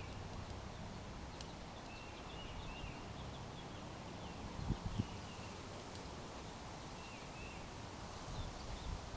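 Backyard songbirds chirping: short, quick chirps in small clusters, over steady low background noise, with two soft thumps about five seconds in.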